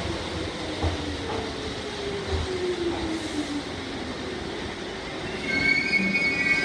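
Electric commuter train pulling into an underground station: the motor whine falls in pitch as it slows, the wheels knock over rail joints a couple of times, and a high brake squeal sets in near the end as it comes to a stop.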